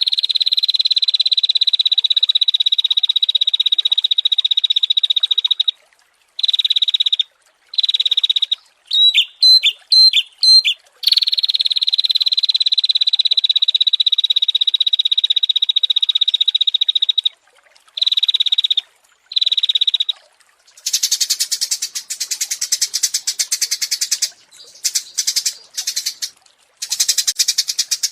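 Small songbirds singing in long, rapid, buzzing high trills broken by sudden gaps, with a quick run of sharp chirps in between; from about two-thirds of the way in, a harsher, rasping rapid trill takes over.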